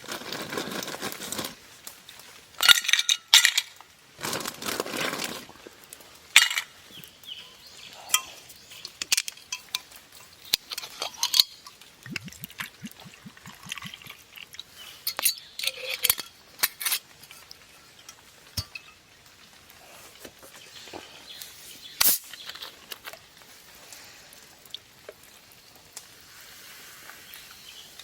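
Clinks, knocks and clatter of cookware, dishes and utensils being handled during food preparation, with a few rustling bursts near the start and a short run of quick taps about halfway through.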